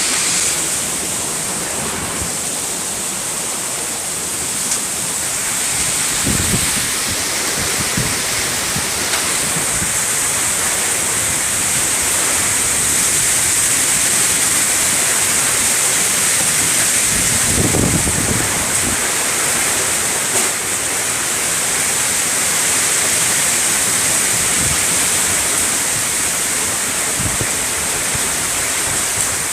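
Heavy thunderstorm downpour: a steady, dense hiss of torrential rain, with two brief low rumbles about six and eighteen seconds in.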